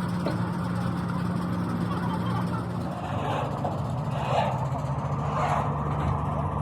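An engine running at a steady speed, its pitch dropping slightly about halfway through.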